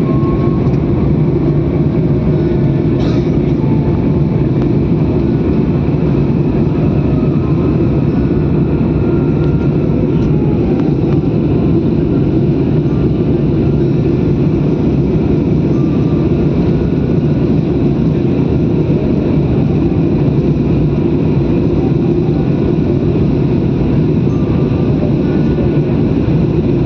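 Steady, loud drone of an airliner's engines and rushing air, with an even level and no rise or fade, typical of what is heard inside the cabin in flight.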